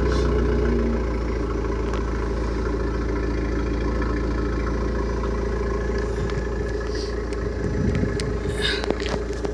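Car engine idling steadily just after start-up, its idle easing down slightly about a second in. A few light clicks near the end.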